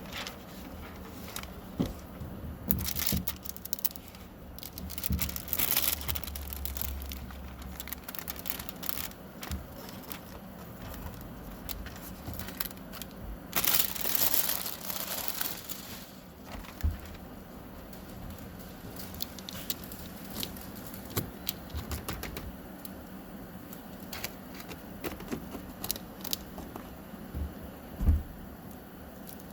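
Window tint film crinkling and rustling as it is handled and slid into place on the wet rear glass, with scattered clicks and a few longer bursts of noise.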